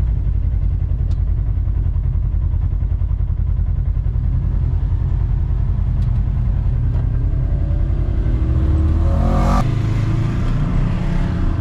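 Polaris Xpedition side-by-side's engine running in a steady rumble, its pitch climbing as it revs up toward nine seconds in, then dropping off suddenly.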